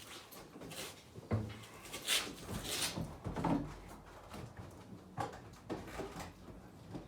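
Scattered clicks, knocks and short rustles, with a low thump about a second in; no engine is running yet.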